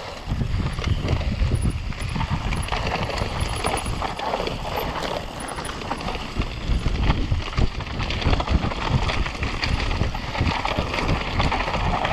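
Mountain bike running fast down a rough trail: a constant rattle and irregular knocks from the tyres, frame and chain over rocks, over a heavy low rumble of wind on the microphone.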